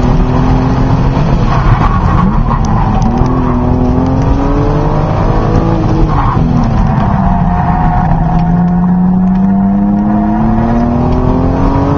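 BMW Z3 M Coupe's straight-six engine, heard from inside the cabin, pulling hard through an autocross course. The pitch rises and falls several times as the driver gets on and off the throttle, then climbs steadily through the last few seconds, over a constant rumble of road and wind noise.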